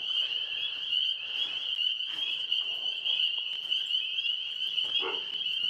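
Chorus of tree frogs trilling steadily in a continuous high-pitched drone.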